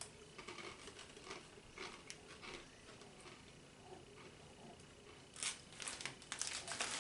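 A plastic snack packet crinkling as it is handled: scattered soft crackles, busier and louder near the end.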